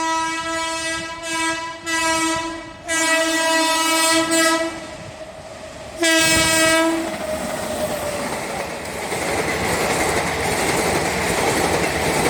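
Locomotive horn of an express train sounding in several blasts over the first five seconds, then one more short blast about six seconds in, followed by the loud steady rush and wheel clatter of the train passing at speed.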